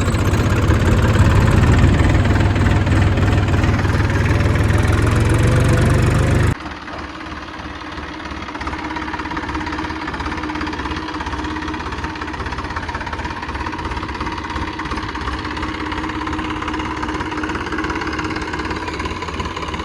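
An engine running steadily, loud for the first six or so seconds, then cutting abruptly to a quieter, steady engine sound with an even low pulsing.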